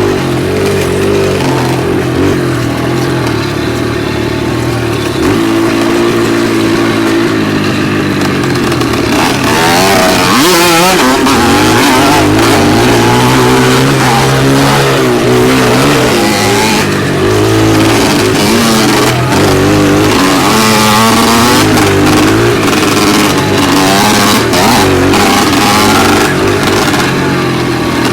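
Dirt bike engine running under load on a trail, its pitch rising and falling as the throttle is opened and closed and the bike shifts, with a steady rush of wind and riding noise underneath.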